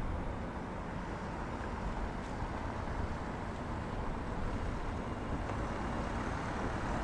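Hydrogen-powered Class 614 multiple unit (a converted Class 314 electric train) running slowly toward the platform, a steady hum and rumble that grows slightly louder as it nears.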